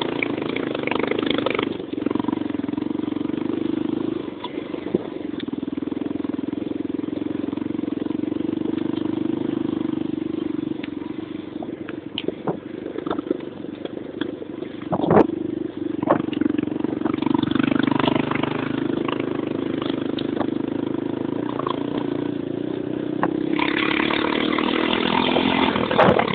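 Motocross motorcycle engine running at a steady pace. It eases off about four seconds in, with scattered knocks in the middle, and grows louder near the end.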